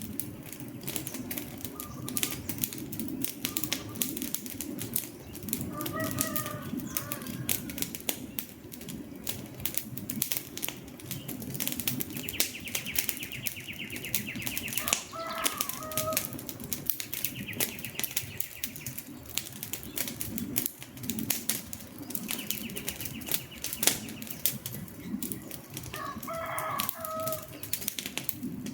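Wood fire crackling with frequent sharp pops over a low rush of flames. A short bird call sounds three times, roughly ten seconds apart, and a high buzzing trill comes in between.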